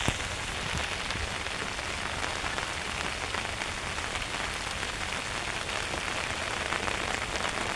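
Heavy rain falling steadily, with many close drops ticking on the umbrella held overhead.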